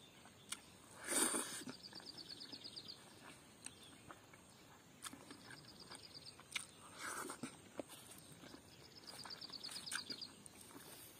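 Close-up eating sounds: chewing and smacking of a hand-fed mouthful of rice and smoked chicken, with a few louder short bursts about a second in and around seven seconds in. A high, rapid ticking trill repeats three times in the background.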